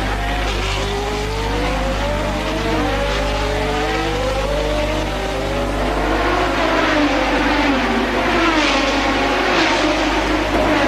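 1988 Formula One cars' engines at racing speed, several at once, each note climbing through the revs and dropping back at every gear change. The sound grows louder and harsher from about six seconds in, as cars come closer.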